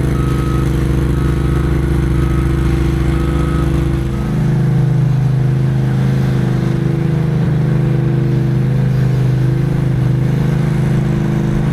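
A vehicle engine running steadily, with a short electronic beep repeating about every three-quarters of a second. About a third of the way in the beeping stops and the engine note shifts and grows a little louder.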